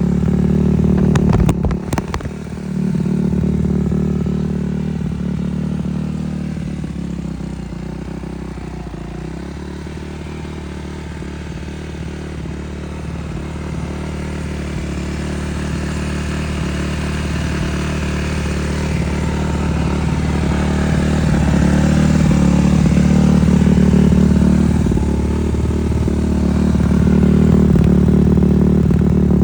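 Suzuki RM-Z250's four-stroke single-cylinder engine running steadily, its note slowly swelling and getting louder over the last third. A few sharp knocks come about two seconds in.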